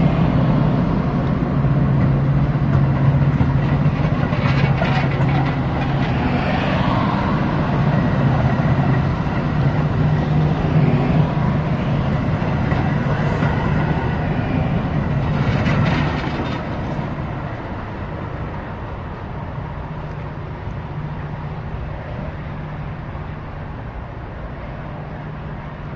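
Metra commuter train's bilevel passenger cars rolling past close by: a steady rumble of wheels on rail with a low hum. About two-thirds of the way through it fades as the train draws away.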